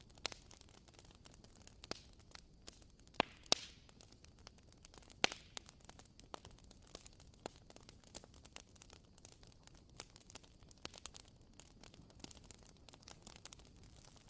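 Wooden wick of a WoodWick candle crackling: faint, irregular small pops over a soft hiss, with a few louder snaps around three and five seconds in.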